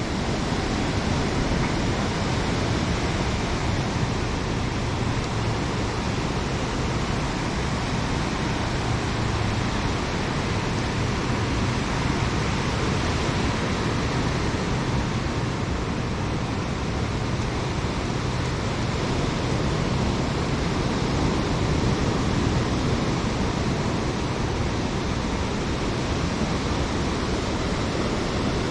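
Ocean surf breaking on a sandy beach, a steady even rush of noise.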